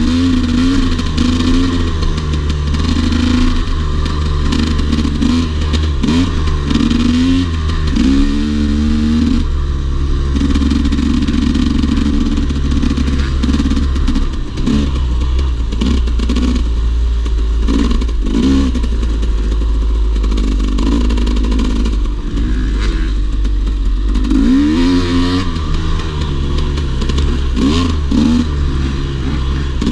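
Dirt bike engine being ridden, its pitch rising and falling with the throttle and gear changes, with several quick rising revs.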